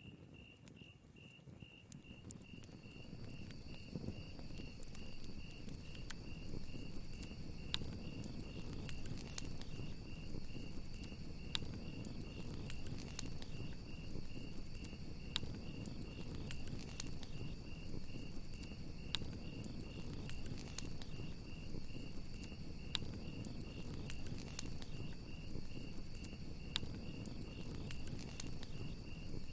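Crickets trilling steadily, joined a couple of seconds in by a second, higher-pitched cricket, over a crackling wood fire with scattered sharp pops. The fire fades up over the first few seconds.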